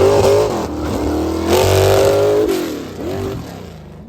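Truck engine revving hard twice, each time held high for about a second before dropping, then a short blip as it fades near the end.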